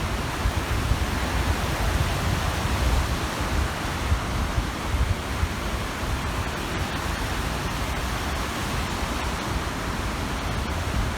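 Small wind-driven waves washing steadily on a reservoir shore, an even rush of water noise, with wind rumbling on the microphone.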